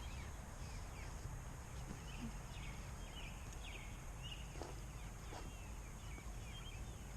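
Birds chirping: scattered short, high chirps, several a second at times, over a steady low rumble.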